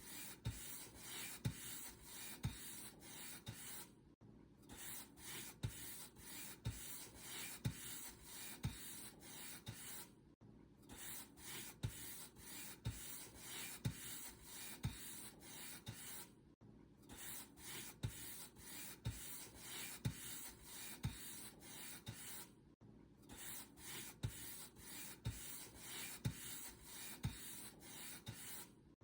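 Paint brush bristles stroking back and forth across a surface in a steady run of soft, scratchy strokes, about two a second, pausing briefly about every six seconds.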